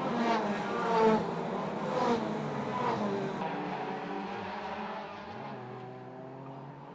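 2-litre hot rod race cars at full throttle. The engine note climbs again and again over the first few seconds, then grows steadier and fades away as the cars draw off.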